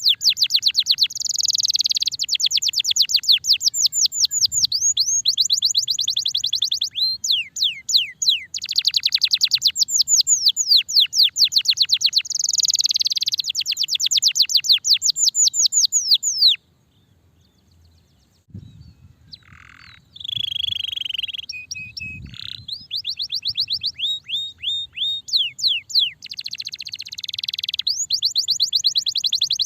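A domestic canary singing long rolling trills, each a fast run of repeated downward-slurred notes. The song breaks off briefly about halfway, picks up with a few single lower notes, then goes back into trills.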